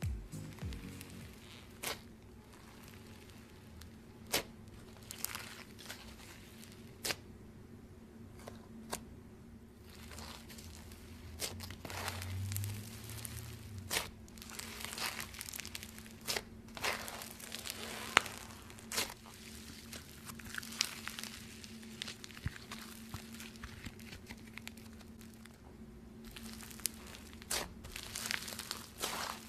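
Slime being squeezed and worked by hand, giving soft crinkly crackling with scattered sharp pops and clicks at irregular intervals.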